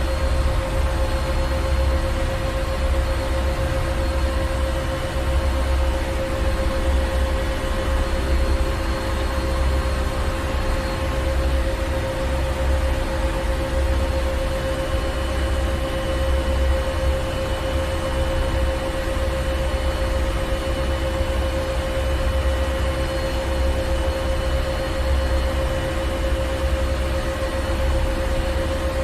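Ship's engine room: heavy marine engine machinery running steadily, a deep rumble with a slight pulse under a constant hum and hiss.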